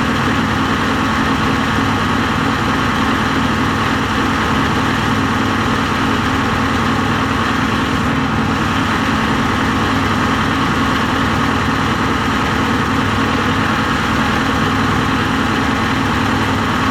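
John Deere 245G excavator's four-cylinder diesel engine idling steadily, freshly tuned with its EGR and emissions systems turned off. The mechanic suspects it is not running on all four cylinders.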